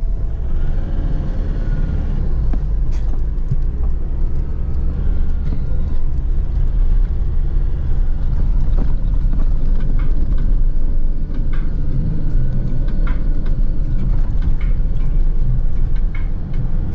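A 4x4 jeep driving over desert sand, heard from inside: steady low engine and road rumble, with scattered knocks and rattles from the bumpy ride.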